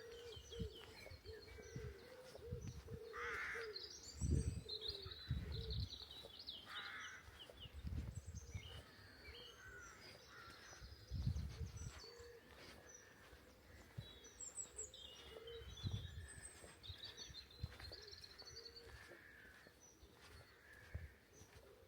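Songbirds singing outdoors, with many short high warbling phrases overlapping throughout. A crow caws a few times in the first seven seconds or so, and low dull thuds come now and then.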